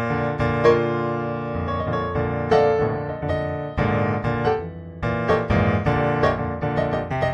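Background music: a piano piece with a series of struck notes and chords.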